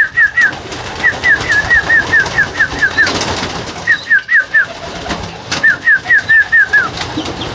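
A person whistling the feeding call for racing pigeons, four quick runs of short high chirping notes, about six a second. Pigeons coo in the background.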